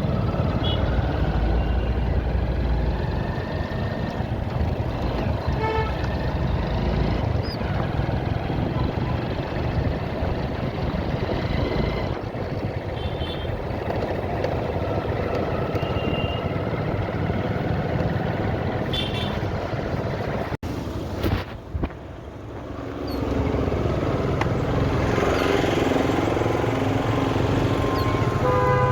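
Road traffic heard from a moving bike: a steady rush of engine and road noise, with several short horn toots from other vehicles. The sound drops out briefly about two-thirds of the way through.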